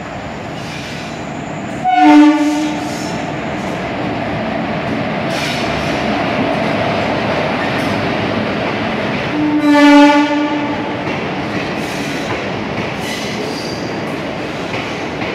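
Passenger train pulling in past the platform: its locomotive horn sounds two short blasts, about 2 seconds in and again about 10 seconds in, over the steady rumble and clatter of the locomotive and coaches rolling by.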